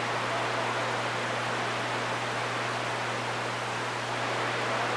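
CB radio receiver hissing with steady static between transmissions, with a constant low hum underneath.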